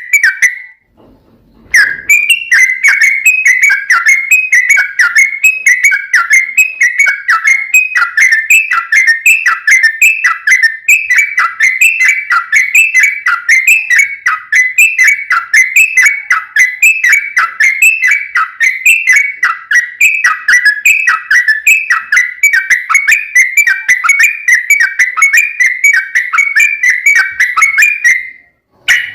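Yellow-vented bulbul singing a long, fast string of short whistled notes without a break, the rapid-fire 'ropel panjang' song. It starts after a short pause about two seconds in and stops just before the end.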